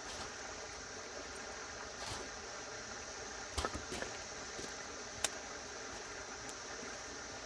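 Steady rush of a running creek, with a few sharp pops and cracks near the middle from a newly lit campfire of split 2x4s and dry Christmas tree branches.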